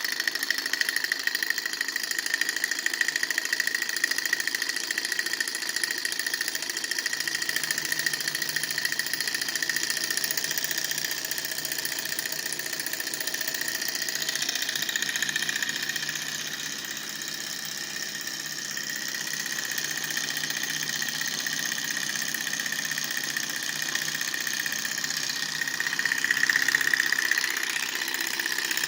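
Alcohol-fired model Stirling engine running, its flywheel turning a small generator through a rubber band: a steady, rapid mechanical clatter with a high steady tone. It dips briefly in level about two-thirds of the way through and swells near the end.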